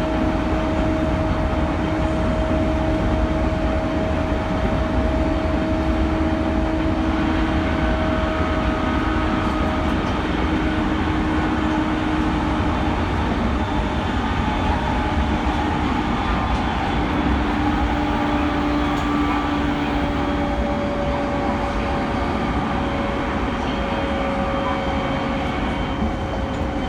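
E217 series electric train running at speed, its traction motors giving a steady whine that rail fans liken to a vacuum cleaner, over a rumble of wheels on track. The whine drifts slowly lower in pitch as the train begins to slow, and fainter, higher tones come and go from about seven seconds in.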